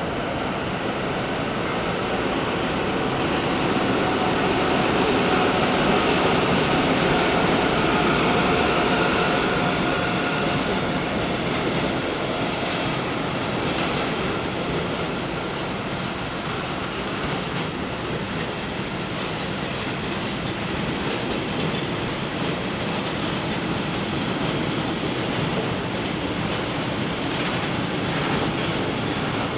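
Freight train of log-laden wagons rolling past: a steady rail rumble with wheel noise, loudest in the first third, with a faint steady whine during the first ten seconds and wheels clicking over the rail joints later on.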